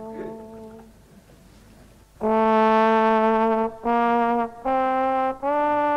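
Slow brass music. A held note fades out in the first second, and after a short pause four long sustained notes follow, the last three each stepping a little higher in pitch.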